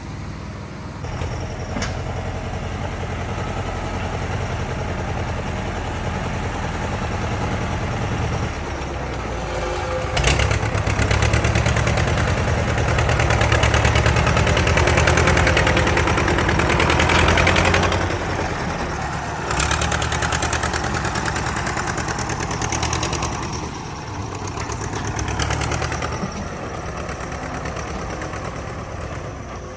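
A motor vehicle's engine running steadily, getting louder for several seconds in the middle as it works harder, with a few sharp knocks over it.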